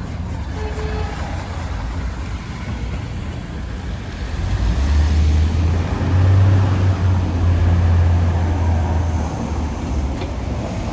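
Fire truck's diesel engine rumbling deeply as the rig drives past over street traffic noise, growing loud from about four seconds in and fading again near the end.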